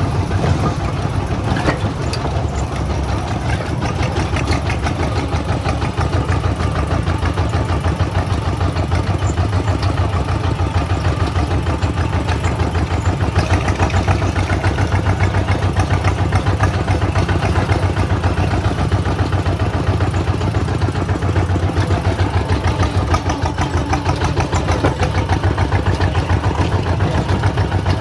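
Kubota single-cylinder diesel engine running steadily with a fast, even chugging pulse.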